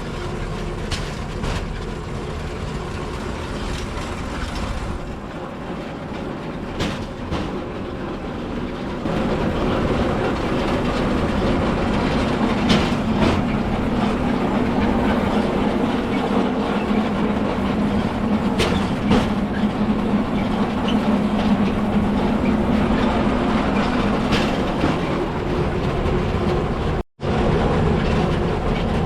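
Rail bike's steel wheels rolling along old railway track: a steady rumble with scattered sharp clicks over the rail joints, growing louder about nine seconds in and cutting out for an instant near the end.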